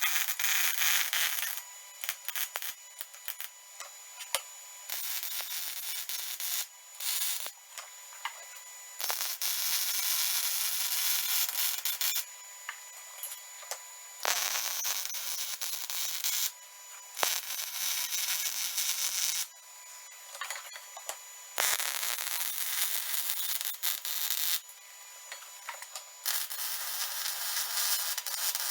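MIG welding arc from a Lincoln Power MIG 180 Dual crackling in a string of short welds, each burst lasting one to three seconds with brief pauses between them, as broken joints on a steel T-post pounder are welded back together.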